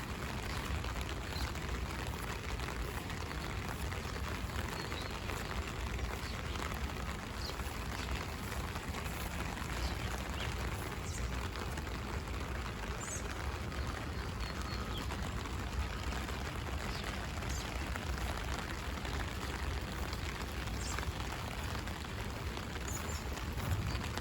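Steady rain pattering on an umbrella, over a low rumble, with faint short high bird chirps now and then.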